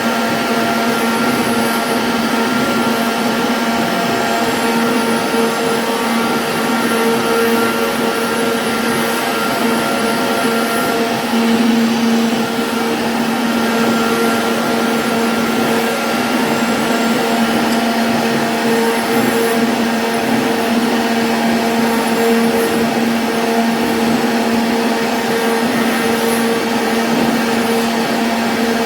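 CNC router spindle cutting MDF, a steady whine over an even rushing noise that holds at one level without pause.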